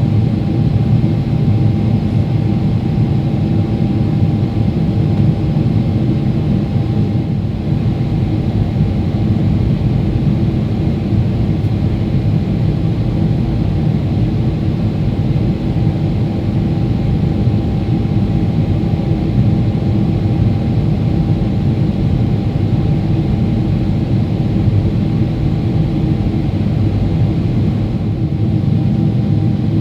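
Steady cabin noise inside a Boeing 777-300ER on its landing approach: a low rumble of the jet engines and rushing air, with a faint steady hum on top.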